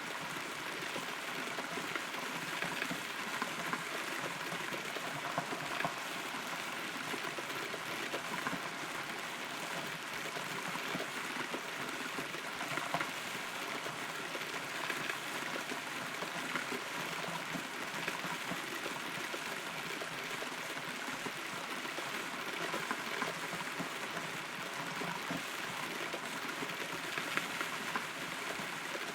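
Steady rain, heard from inside a hollow rotten tree, with many separate drops pattering on the wood.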